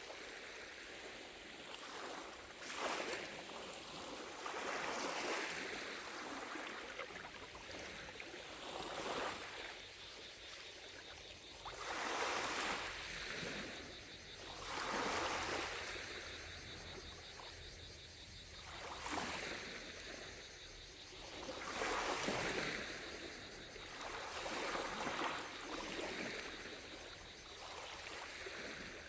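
Small lake waves lapping at the shore, a series of soft splashing swells every two to four seconds, with a faint steady high buzz of distant cicadas beneath.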